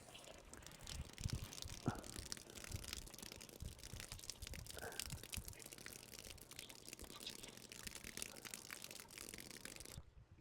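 Faint water splashing and trickling, with many small crackling clicks, as water is put down the exhaust pipe of the mud pump to flush out mud clogging it. The sound cuts off suddenly near the end.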